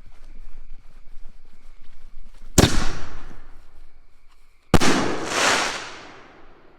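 Two loud firework bangs about two seconds apart, each trailing off over a second or more.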